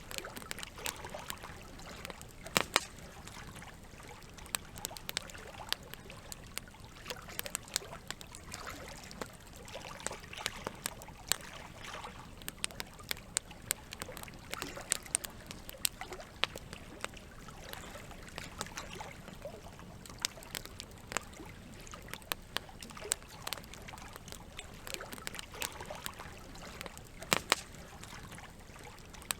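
Campfire crackling, with frequent irregular sharp pops and snaps, a few of them much louder, over a steady trickle of flowing water.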